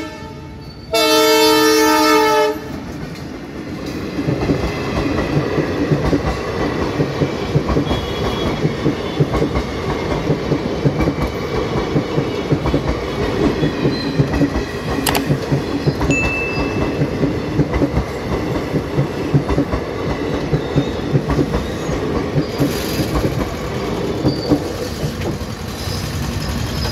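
Locomotive horn sounding one chord-like blast of about a second and a half, then a passenger train passing close by: a steady rumble of coach wheels with clickety-clack over the rail joints.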